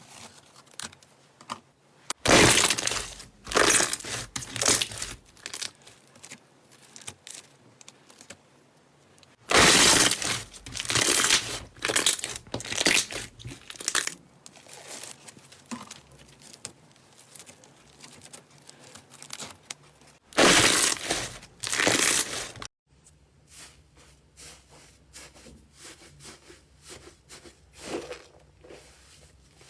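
Slime being squeezed and pressed by hand, giving off crackling and popping. It comes in three loud spells, with quieter scattered crackles and clicks between them and toward the end.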